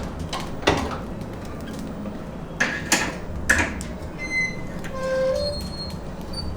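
Kitchen work noise: several sharp metallic clanks and knocks, then a few short squeaks like metal scraping on metal, over a steady low hum.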